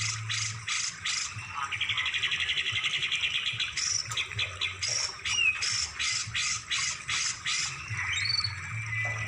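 Songbird song: a quick run of sharp chips, broken by a fast rattling trill about one and a half seconds in, then short upward-sweeping whistles near the end.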